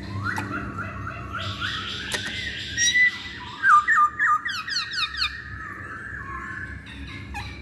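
Masked laughingthrush (poksay Hongkong) calling: a varied run of repeated chattering notes and squawks, loudest in a quick series of short, sharp notes about halfway through.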